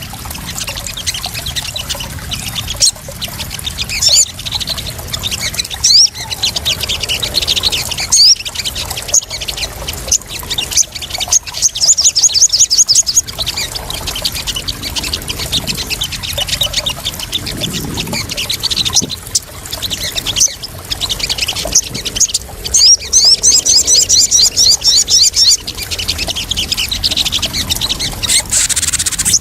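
Sogon birds chirping in repeated runs of fast, high trilled notes over splashing water. It is a lure recording meant to draw and settle sogon birds.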